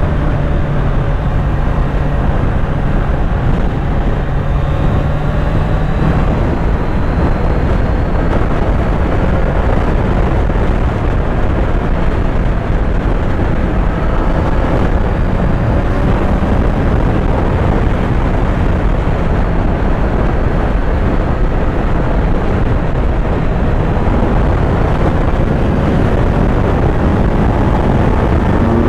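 Kawasaki Z900's inline-four engine running while riding, its pitch drifting slowly up and down, under heavy wind rush on the microphone.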